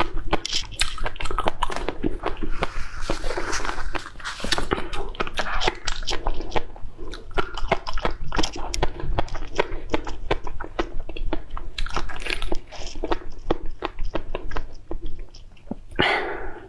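Close-miked eating: continuous biting and chewing, a dense run of sharp crunchy clicks with a brief lull about four seconds in.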